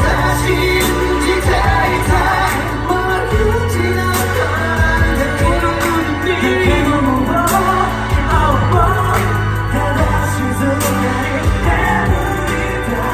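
Pop song playing: a sung melody over drums and bass, with a steady beat.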